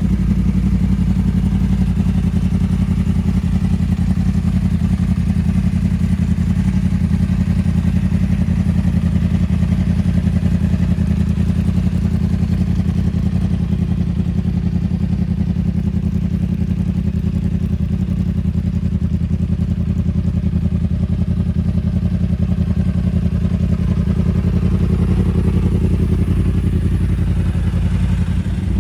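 2015 Yamaha YZF-R1M's crossplane inline-four idling steadily through a Two Brothers S1R carbon-fibre slip-on exhaust, a rapid even pulsing.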